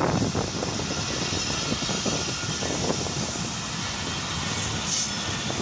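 Karakoram Express passenger coaches rolling past close by: a steady rumble of steel wheels on the rails with irregular clacks over the rail joints.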